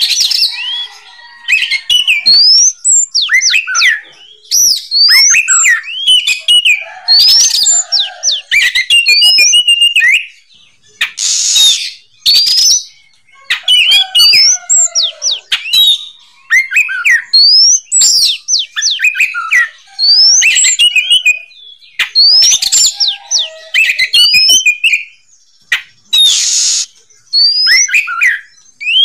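Oriental magpie-robin (kacer) singing loudly in full song: phrases of quick rising and falling whistles mixed with a few harsh raspy notes, separated by short pauses.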